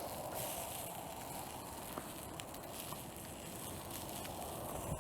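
Wood fire burning in a homemade pail-can wood stove: a steady noise with a few faint crackles.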